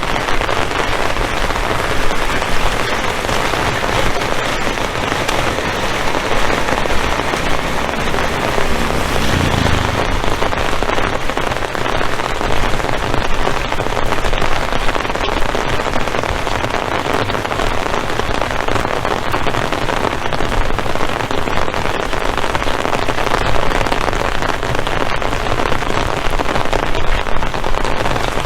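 Heavy rain falling steadily, a loud, dense patter close to the microphone.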